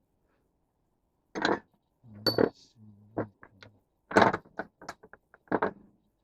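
A series of sharp clinks and knocks of hand tools or metal parts being handled, about a dozen strikes with pauses between, the loudest a little after a second in and about four seconds in.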